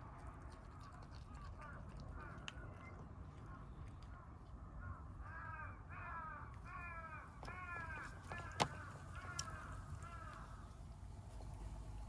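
A run of about eight short animal calls in quick succession, each rising and then falling in pitch, with fainter calls before and after. A single sharp click partway through.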